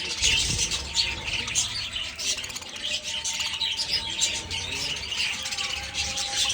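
A flock of budgerigars chirping and chattering all at once in a dense, continuous clamour of many overlapping calls.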